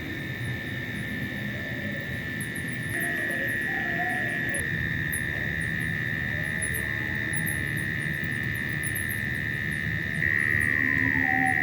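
Night-time insect chorus: a steady high-pitched trill with rapid high ticking above it and faint wavering calls lower down. The trill grows louder about three seconds in and again near the end.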